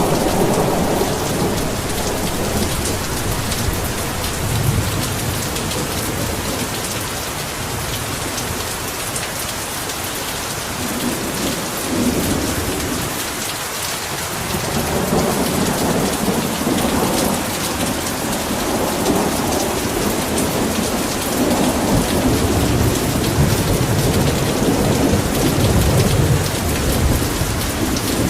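Heavy rain falling steadily, with rolling thunder rumbling underneath. The rumble fades briefly about halfway through, then builds again.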